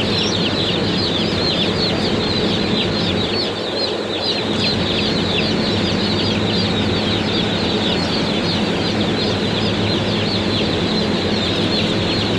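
A box-load of baby broiler chicks peeping together: a dense, continuous chorus of short, high, downward-sliding peeps, over a steady low hum.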